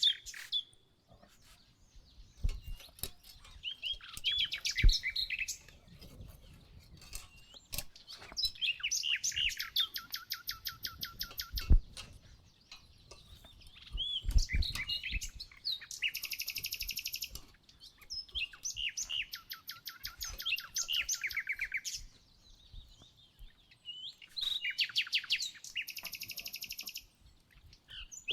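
Songbird singing, repeating phrases of rapid high notes, each lasting about two to three seconds with short pauses between, along with a few soft knocks.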